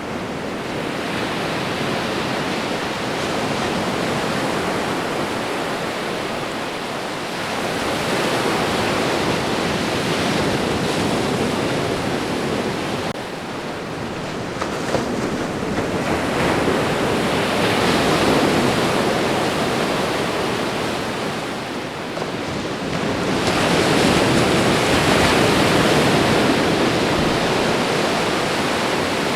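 Ocean waves washing onto a shore: a continuous rush of surf that swells and eases in slow surges every several seconds, the strongest near the end.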